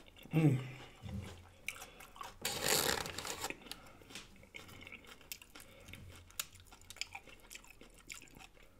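Close-miked eating sounds: crunching and chewing of corn chips and tacos, with wet mouth clicks and smacks. There is a short voiced sound about half a second in and a longer rustling stretch about two and a half seconds in.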